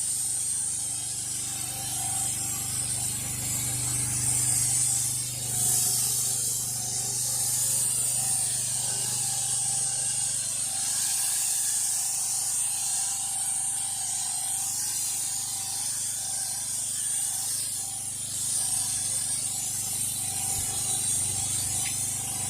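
Pressure washer running steadily, with the hum of its engine under a constant hiss of high-pressure water spraying onto concrete.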